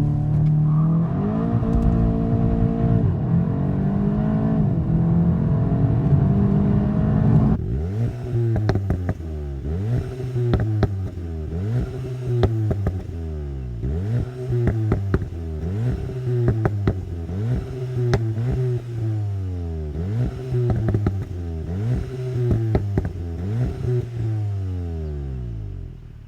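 Golf GTI TCR's 2.0-litre turbo four-cylinder engine held at steady high revs for several seconds, then revving up and falling back over and over, about every two seconds, with sharp crackles from the exhaust.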